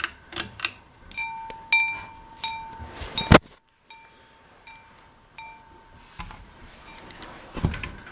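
Ceiling fan on low speed with light metallic clinks ringing like a small chime, about two a second for the first three seconds, then a sharp knock a little over three seconds in and a few fainter clinks and clicks later.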